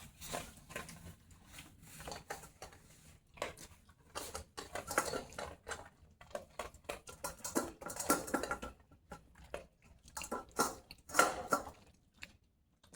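A dog eating dry kibble from a bowl, with irregular crunching and the rattle of kibble against the bowl.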